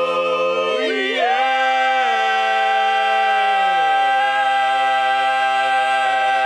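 Barbershop quartet singing a cappella, holding its final chord on a long 'whoa'. About a second in the upper voices glide up into a new chord, and a few seconds later the bass steps down, with the chord ringing on steadily.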